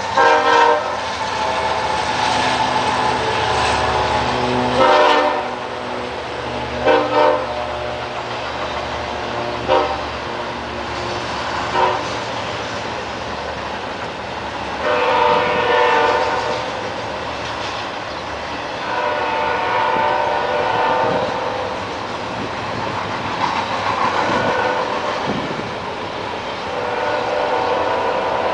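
Canadian National freight train's diesel locomotive horn sounding repeatedly, in long and short blasts, over the steady rumble of the locomotives and rolling freight cars.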